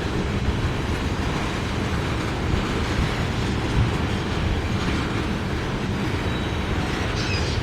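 Freight train of ethanol tank cars rolling past, a steady rumble of steel wheels on the rails.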